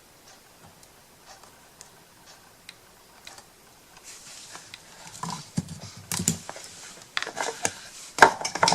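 Light irregular clicks, taps and rustling from small craft pieces being handled and set down on a work table. It is faint at first and gets busier about four seconds in, with a couple of sharper clicks near the end.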